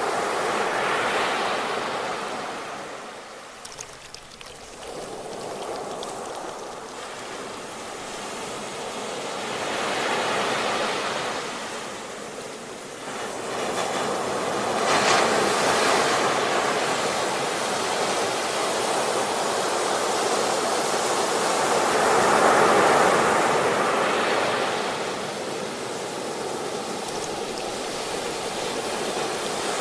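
Ocean waves breaking and washing on the shore, the surf swelling and fading in slow surges every several seconds, with a sharper crash about fifteen seconds in.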